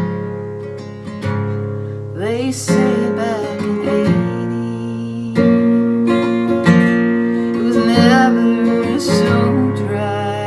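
Acoustic guitar strummed and picked, with a melody line over it that slides up in pitch about two seconds in and again near eight seconds.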